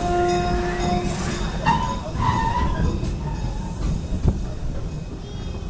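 Amusement-park narrow-gauge passenger train running along its track: a steady rumble of wheels and cars, with a brief steady tone in the first second, some squealing around two seconds in, and a single sharp knock about four seconds in.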